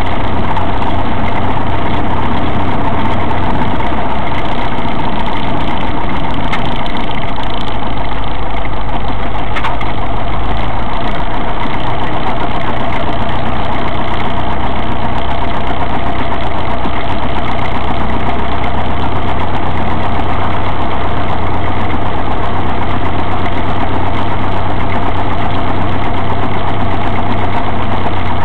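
Cessna 172's piston engine and propeller running steadily, heard from inside the cockpit.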